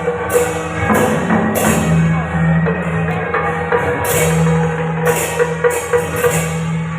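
Procession music driven by drums, with repeated cymbal crashes over held low tones.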